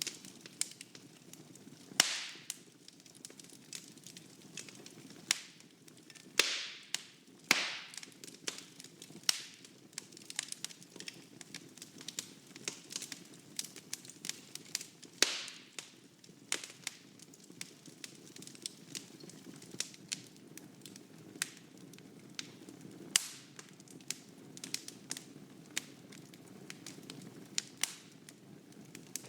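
Wood fire burning in a fireplace: frequent crackles and sharp pops over a steady low rumble of the flames, with a few louder snaps that trail off in a brief hiss, about two, six and a half, seven and a half, fifteen and twenty-three seconds in.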